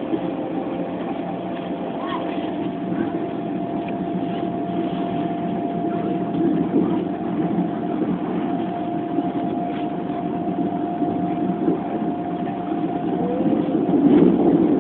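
Class 390 Pendolino electric train running at speed, heard from inside the passenger coach: a steady rumble of the running gear on the track, with a thin hum held on one pitch throughout.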